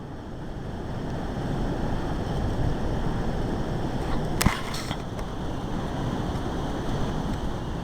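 Strong wind gusting against the microphone, a low rumbling rush that builds over the first couple of seconds and then holds. A single sharp knock is heard about halfway through.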